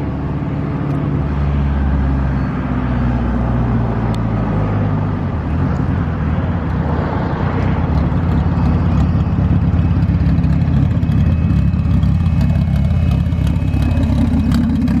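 A car's engine running close by, its pitch dropping about five seconds in and then running steadily, as at a slow roll or idle.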